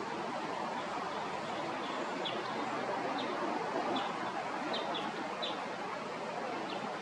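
Short, high bird chirps, about eight of them scattered from about two seconds in, over a steady background hiss of outdoor noise.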